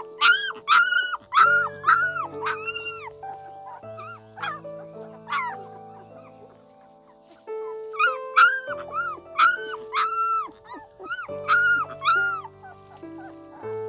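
Puppies whining and yelping in short, high, arching cries, two runs of them a few seconds apart, over soft background music with sustained notes.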